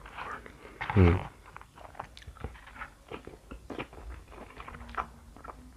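Close-up chewing of a mouthful of instant noodles with coated peanuts: many small wet mouth clicks and light crunches. A short hummed voice sound comes about a second in.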